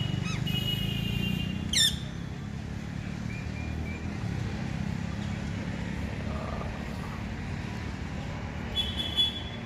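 Birds calling over a steady low background rumble: a few whistled notes, then a sharp call sweeping steeply down in pitch about two seconds in, a couple of soft chirps, and two loud calls near the end.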